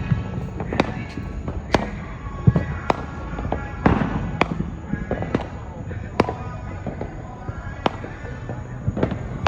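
Fireworks going off around the street: a dozen or so sharp bangs and pops at irregular intervals.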